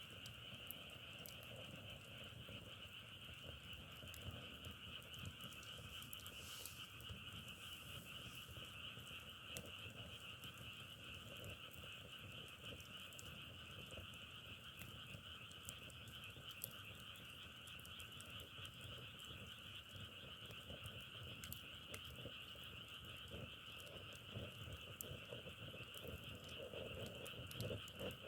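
A faint, dense chorus of many frogs calling at once, steady throughout.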